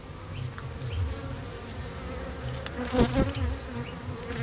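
Honey bees buzzing around an open hive as a steady hum. About three seconds in, one bee passes close and its buzz rises and falls in pitch.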